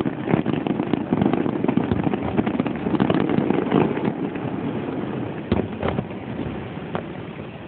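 Fireworks going off in a rapid barrage of crackling bursts and bangs, with one louder bang about five and a half seconds in, thinning out near the end.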